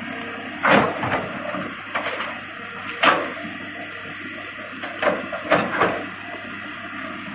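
Excavator at work: the engine running steadily under a series of sharp knocks and clanks, about six in all, the loudest about three seconds in.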